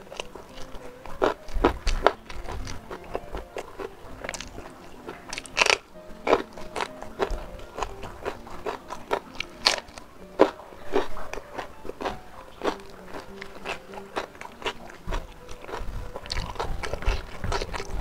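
Close-up crunching and chewing of a raw winged bean, many crisp bites and crunches at irregular intervals. Faint background music with sustained tones plays underneath.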